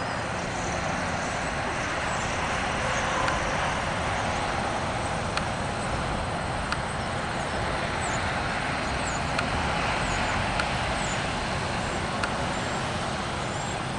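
Steady background traffic noise, with a few faint, short high chirps of small birds in the middle.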